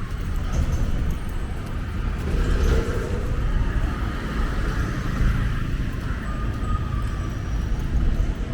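Steady road traffic on a busy city street: a constant rumble of engines and tyres from passing cars and other motor vehicles.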